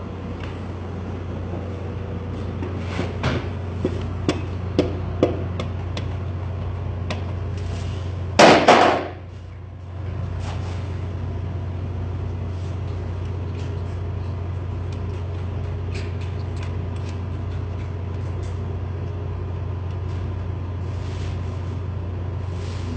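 A few light knocks, then one louder knock about halfway through, over a steady low hum.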